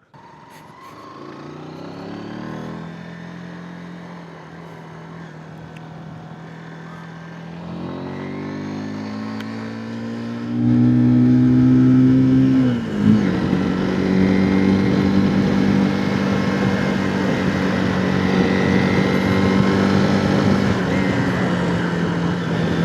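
Zontes 125 motorcycle's single-cylinder engine pulling away and accelerating, its pitch rising in steps through the gears, with a brief dip about thirteen seconds in as a gear changes, then running steadily at cruising speed.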